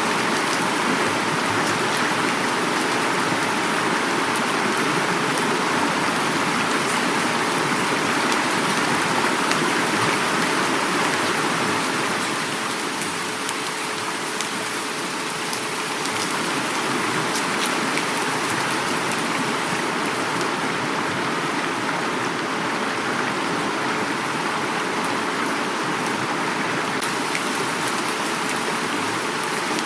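Heavy rain falling together with a flowing river: a steady rushing hiss of water, with scattered individual raindrop ticks on top.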